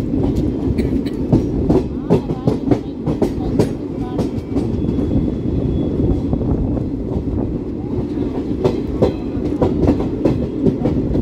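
Indian Railways train running on its tracks: a steady rumble with a dense, irregular clatter of wheels over rail joints.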